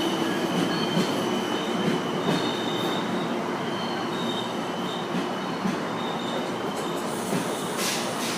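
A train rolling along the rails, a steady running noise that slowly fades, with thin high wheel squeals coming and going.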